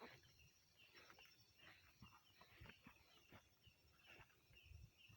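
Faint, short bird chirps repeating every fraction of a second over near silence, with a few soft clicks.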